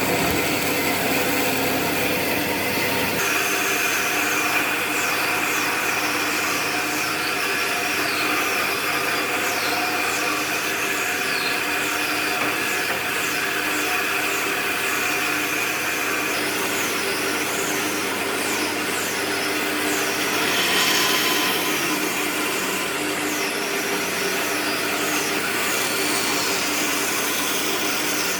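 An electric motor, such as a workshop power tool or dust extractor, running steadily. From about three seconds in, short high falling chirps repeat over it.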